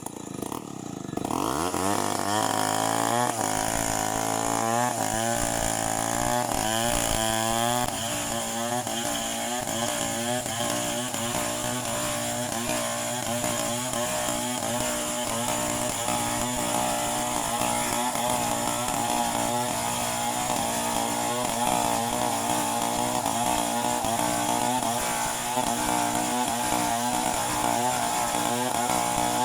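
Two-stroke chainsaw engine revving up about a second in and surging up and down for several seconds, then running steadily at high speed.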